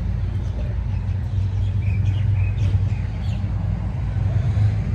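A car engine running steadily at idle, low and even, with a few short bird chirps around the middle.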